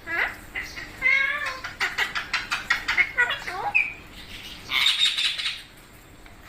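Pet parrot calling and chattering: a string of short squawks and whistled glides, rapid clicking chatter, and a harsh screech about five seconds in.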